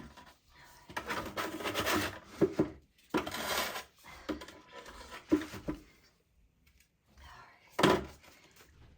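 Trowel scraping and working rapid-set repair mortar in irregular strokes, with a few sharp knocks and one loud scrape-and-knock near the end.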